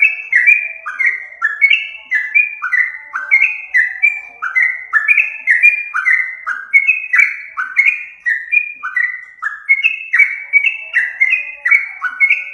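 Yellow-vented bulbul (trucukan) calling: a continuous, rapid run of short, bubbly whistled notes, each dropping in pitch, about three a second and overlapping as if from several birds. This is the kind of call used to lure the species.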